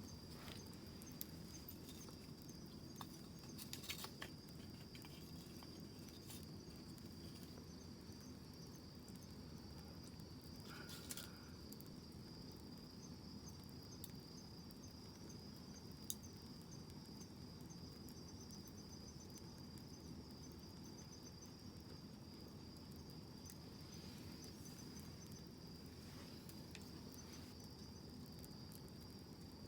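Faint wood campfire crackling, with a low steady hiss and scattered sharp pops, over a continuous high insect trill like crickets.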